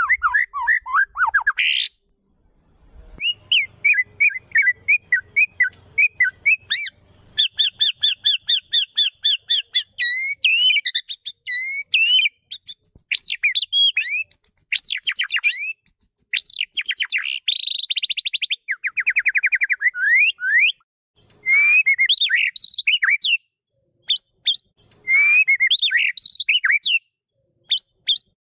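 White-rumped shama (murai batu) singing a varied song: fast trills and rapid repeated notes, rising and falling whistles and sharp chirps in a string of phrases, broken by a few short pauses.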